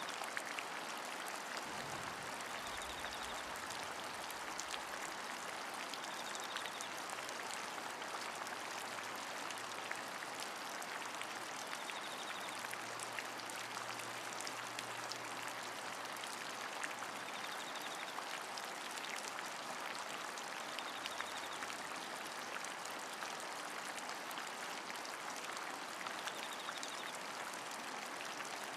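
Steady rain: a dense, even hiss of falling rain with many small drop ticks through it.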